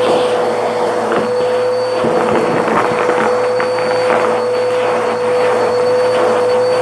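Vacuum cleaner running with a steady high motor whine and rushing air, with scattered crackles through it.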